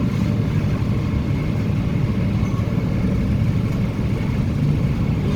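Korean-built MTR K-train electric multiple unit running at speed between stations: a steady rumble of wheels on rail, with a faint steady whine above it.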